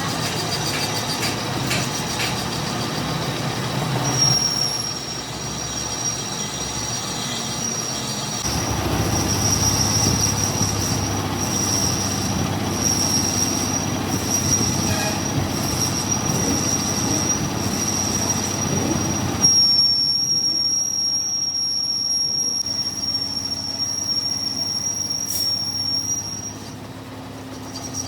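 Steel being machined, with a steady high-pitched squeal over the machine noise. The sound changes abruptly a few times.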